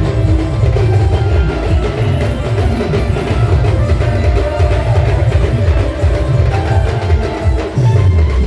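Loud procession band music with heavy, driving drum beats.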